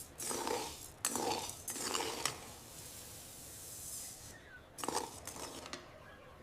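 Small kitchen utensils clinking and scraping in a few short strokes, three close together at the start and one more near the end.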